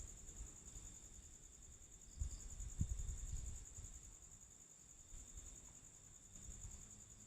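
Crickets chirping in a steady, fast-pulsing high trill. A brief low rumble on the microphone comes about two seconds in and fades within a second and a half.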